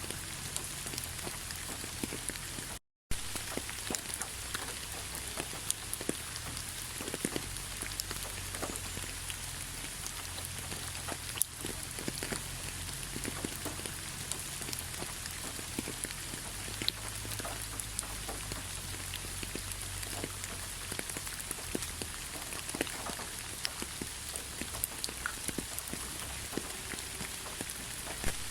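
Steady rainfall, a constant hiss with many individual raindrops ticking on surfaces. The sound cuts out completely for a split second about three seconds in.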